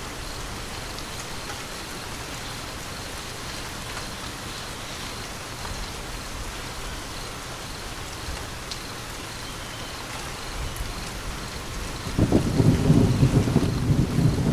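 Steady rain falling, with a deep thunder rumble breaking in near the end and becoming the loudest sound.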